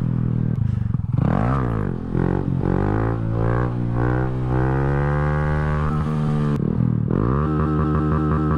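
A 2020 Honda Grom's small single-cylinder four-stroke engine is revved sharply, then climbs steadily in pitch for several seconds as the bike accelerates into a wheelie attempt. Near the end, music with an evenly repeating beat cuts in.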